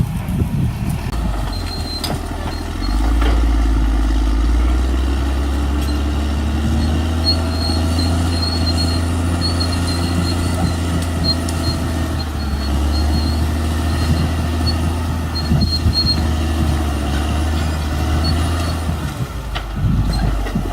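Caterpillar D6R XL bulldozer's diesel engine running under load; it gets louder about three seconds in and its pitch shifts as it works. A few short knocks come through.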